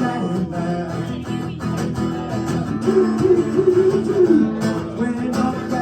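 Music: acoustic guitar strummed in a driving punk rhythm, with a melody line wavering in pitch over it.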